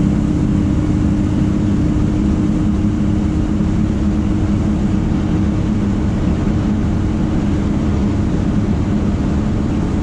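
Chevy C10 square-body pickup driving on Flowmaster mufflers, its engine and exhaust droning steadily at an even pace.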